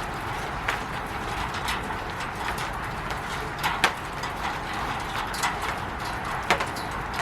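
Steady rain falling on a roof, a constant hiss with irregular louder drops knocking on it every second or so, two close together about four seconds in.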